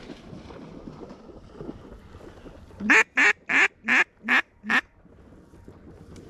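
Duck call blown close by: six quacks in a quick run, about three a second, the first the loudest and the rest tapering off.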